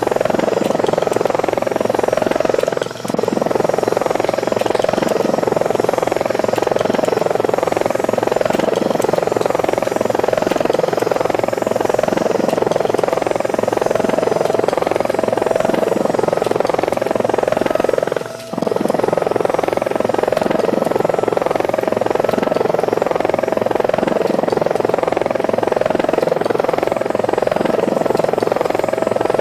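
Steady rotor buzz of a small electric helicopter flying the camera over the layout, with two brief dips in level, about 3 s and 18 s in.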